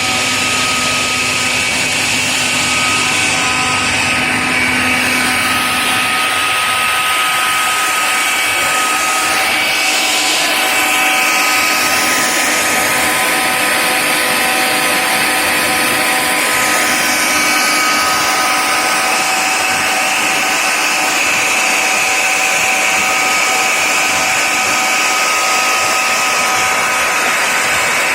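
BAC 50 HP rotary screw air compressor running steadily: an even, loud machine noise with a whine held at several steady pitches.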